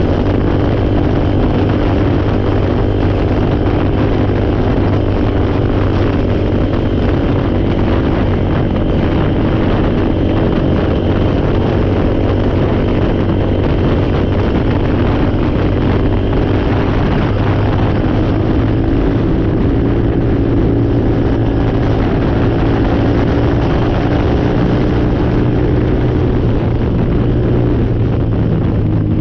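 ATV engine running steadily at a fairly constant speed, its pitch shifting only slightly.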